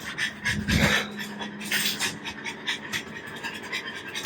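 A dog panting in quick, short breaths, over a steady low hum. There is a dull thump about half a second in.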